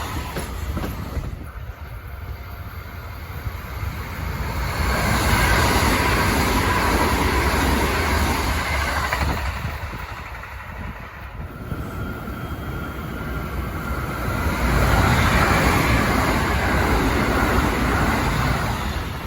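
Kintetsu limited express electric trains running through a station at speed, the running noise of wheels on rail and motors swelling and easing twice.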